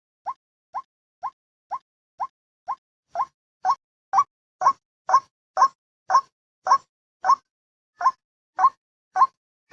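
White-breasted waterhen calling: a steady run of short, upward-sliding 'wak' notes, about two a second, growing louder after a few seconds.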